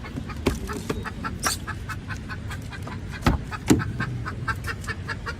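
Chicken clucking in a rapid, even series of short notes. Two sharp knocks come a little past three seconds in.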